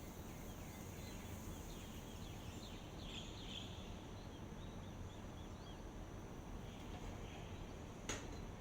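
Faint outdoor dawn ambience: small birds chirping in quick runs of short notes, densest in the first half, over a steady high insect drone and a low rumble. A single sharp click comes near the end.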